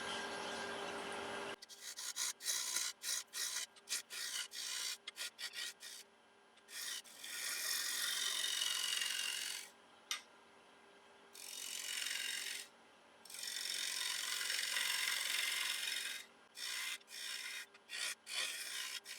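A 3/8 inch bowl gouge cutting a spinning sycamore bowl blank on a lathe, with a faint motor hum underneath. A run of short, quick cuts gives way to three longer hissing passes of a few seconds each in the middle, then short cuts again near the end.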